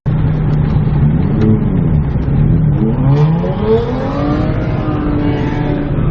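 Car engine revving: its pitch dips, then climbs and holds higher, over a steady low hum.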